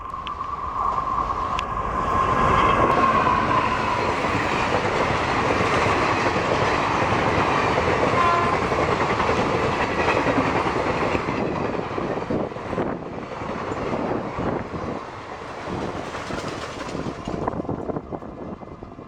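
Indian Railways express train passing at speed: the locomotive's horn sounds one long steady note that drops slightly in pitch as it goes by, then the coaches run past with a continuous rush and wheel clatter, fading away near the end.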